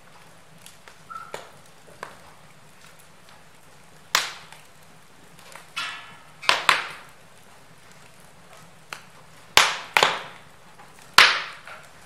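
Wood fire in a fireplace crackling, with irregular sharp pops and snaps of burning logs. Several loud cracks come in the second half.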